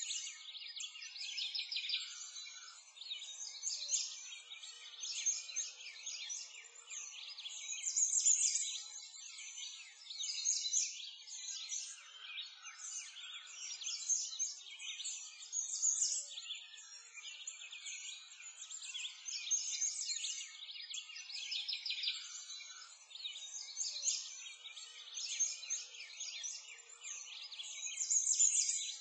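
Several small birds chirping and singing continuously, in a dense, steady chorus of high, quick chirps and trills.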